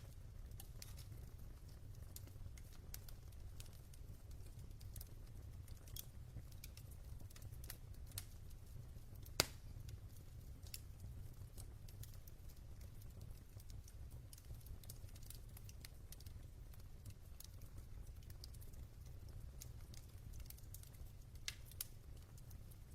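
Log fire in a fireplace crackling: scattered small ticks and snaps, with one sharper pop about nine seconds in, over a steady low rumble.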